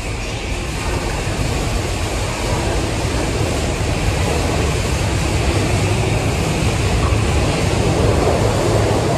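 Tokyu 6020 series electric train running along the platform track, a steady rumble of wheels and running gear that grows louder and peaks near the end.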